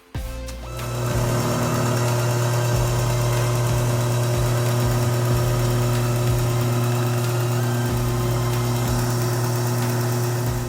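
Kalamazoo 1" x 42" belt sander switched on, spinning up over about a second and running steadily with a strong motor hum and belt hiss. It is switched off near the end and winds down.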